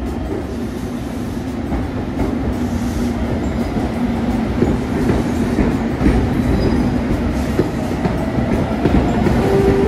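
A train running on the rails, its wheels clicking over rail joints now and then, with a steady low hum; the sound grows gradually louder as it nears.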